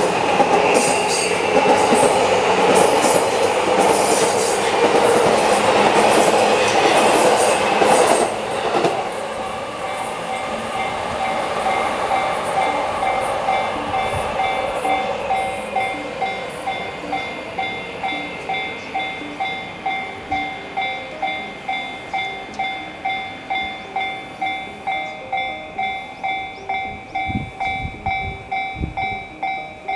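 An electric train runs over a level crossing, its wheels clattering loudly, for about the first nine seconds. After it has passed, the crossing's electronic warning bell keeps ringing in an even pulse, about one and a half strikes a second.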